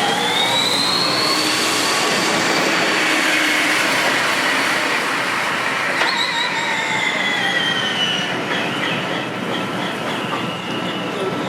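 Formula E electric race cars at speed: the high whine of the electric motor and gearbox over tyre and wind noise. The whine rises over the first couple of seconds and holds, then a second whine cuts in about six seconds in and falls in pitch as a car passes or slows.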